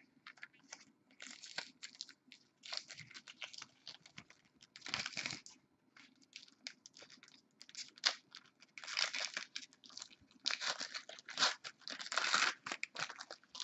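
Trading-card pack wrapper crinkling and tearing open as the cards are handled: irregular bursts of crackling rustle, the loudest about five, nine and twelve seconds in.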